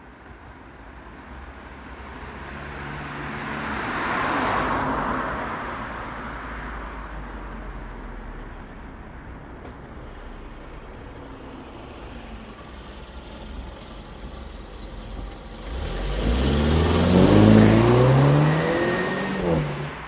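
Mercedes-Benz C300 4Matic engine and stock exhaust: the engine note climbs in several rising steps as the car accelerates hard, loudest in the last few seconds before it falls away. A softer swell of noise comes earlier, about four seconds in.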